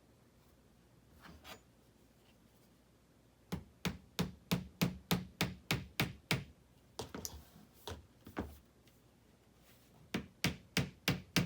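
Steady hammer blows on wood, about three a second in three runs after a quiet start, as the parts of a flat-pack TV shelf are knocked together.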